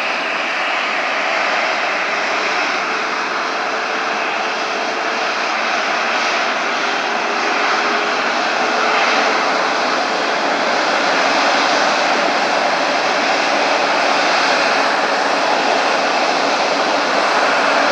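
Close-up of a Qantas Airbus A380's four Rolls-Royce Trent 900 jet engines running near idle: a loud, steady rush with a faint whine in it, growing slightly louder about halfway through.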